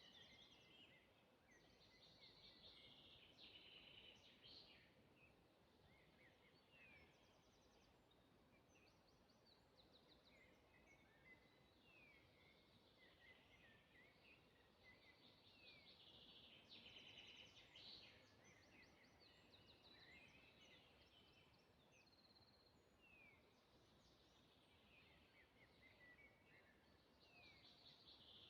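Faint songbirds singing in a forest: bouts of chirps, rapid trills and quick downward-slurred whistles that come back every several seconds, over a faint steady hiss.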